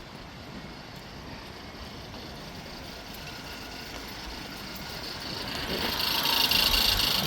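A 2020 LDV G10's 2.0-litre turbo petrol engine running. About five seconds in it grows markedly louder, with a higher-pitched sound coming in.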